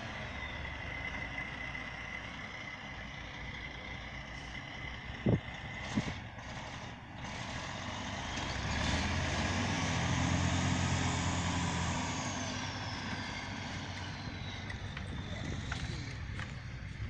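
Heavy diesel engine running under load, growing louder for a few seconds around the middle before easing back, with a steady high whine over it. Two sharp knocks come about five and six seconds in.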